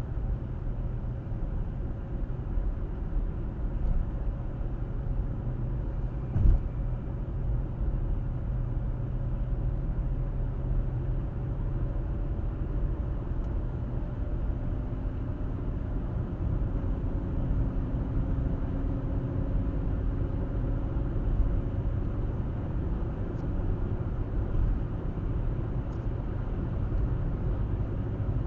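Car driving at steady speed, its tyres and engine making a constant low rumble with a faint humming tone that slowly drifts in pitch. A single sharp thump comes about six and a half seconds in.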